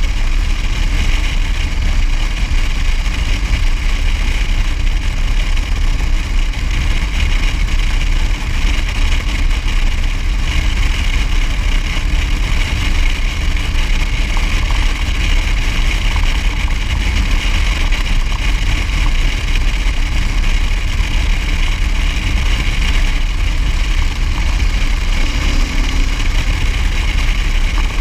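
Motor vehicle on the move at steady road speed: engine running under a constant rush of noise, heavy at the low end like wind on the microphone.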